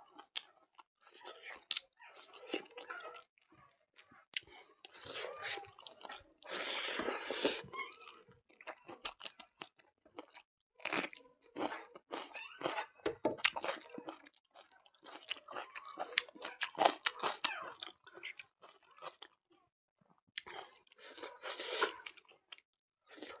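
A person chewing and crunching food close to the microphone, in uneven bursts of bites and chews with short pauses between them.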